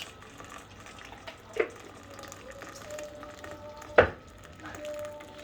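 Boiling water being poured into a container, with a sharp knock about a second and a half in and a louder one about four seconds in.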